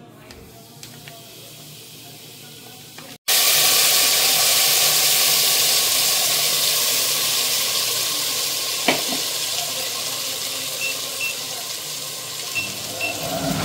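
Masala in hot oil in a kadhai sizzling: faint for about three seconds, then a sudden loud sizzle that eases off gradually as the ground masala paste fries. A single sharp knock comes about nine seconds in.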